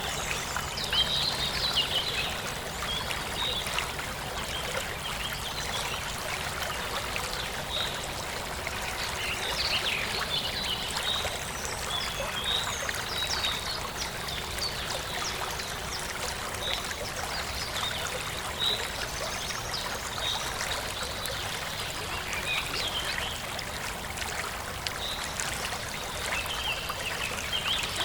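Forest stream flowing and trickling over stones, with birds chirping in short calls throughout.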